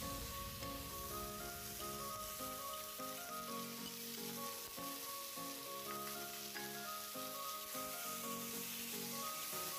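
Marinated chicken sizzling in a hot stainless steel pot, with background music carrying a stepwise melody over it.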